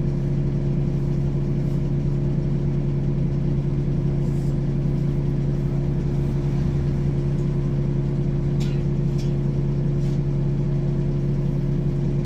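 Ikarus 435 articulated bus's diesel engine idling steadily at a constant pitch. Two faint short clicks come about nine seconds in.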